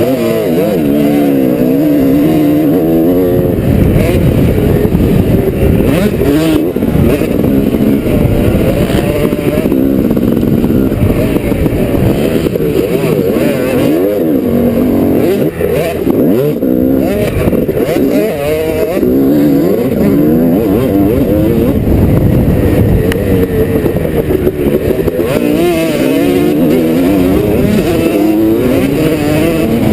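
250-class motocross bike engine revving hard and falling back, over and over, as the rider works the throttle around the track.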